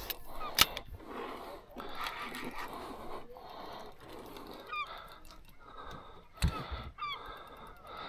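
Birds honking several times in short, rising-and-falling calls over a steady wash of background noise. A sharp knock comes just after the start and another about six and a half seconds in.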